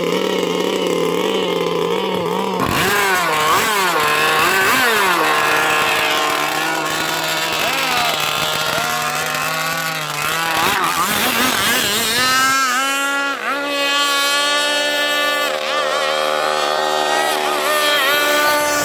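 Zenoah G260PUM two-stroke petrol engine of a radio-controlled gas boat running, steady for the first couple of seconds, then revving up and down again and again as the throttle is worked.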